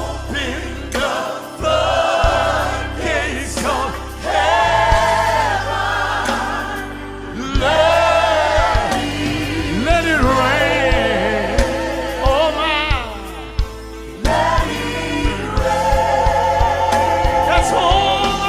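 Gospel music: a choir singing with instrumental backing and a steady beat.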